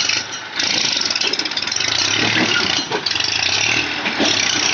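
Massey Ferguson tractor engine running steadily, with a loud hiss of noise over it.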